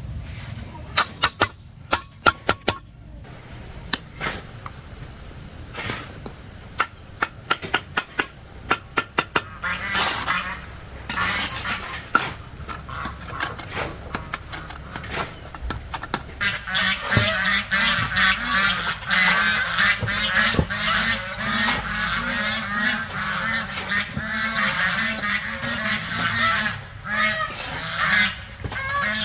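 A string of sharp knocks, then from about halfway through a dense, continuous chorus of honking calls from a flock of fowl, many birds calling over one another.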